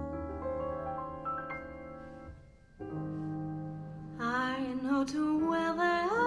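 Jazz piano playing two held chords, then a woman's voice enters about four seconds in, singing with vibrato over the piano.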